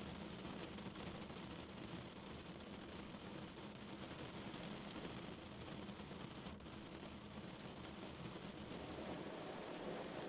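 Steady rain falling on a car, a dense patter of drops with a low hum of rain noise underneath.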